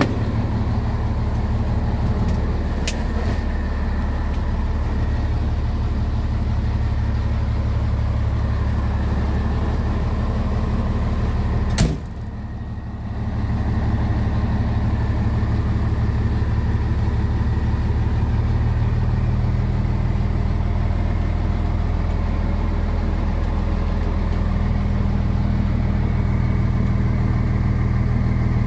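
Scania 111S truck's 11-litre straight-six diesel engine running steadily at idle. About twelve seconds in there is one sharp knock, like a door shutting, after which the sound is briefly quieter.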